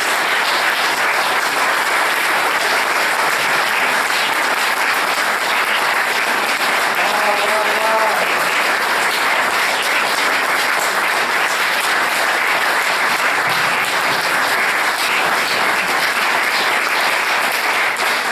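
Audience applauding steadily, dense clapping from a large crowd, with a brief faint voice about halfway through.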